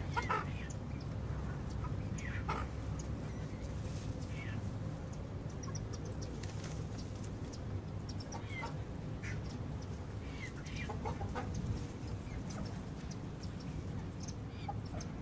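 Chickens clucking in short, scattered calls, over a steady low rumble.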